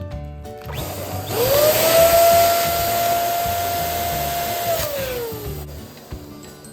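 Electric balloon pump starting up, blowing air with a motor whine that rises quickly, holds steady for about three seconds, then winds down as the pump is switched off.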